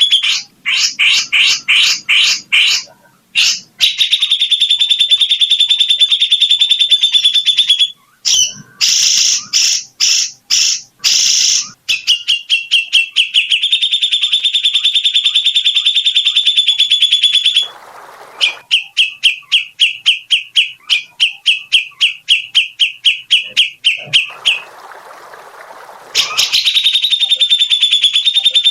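Songbird singing loud, fast rolling trills of rapidly repeated high notes, broken now and then by bursts of separate, spaced notes and two brief pauses.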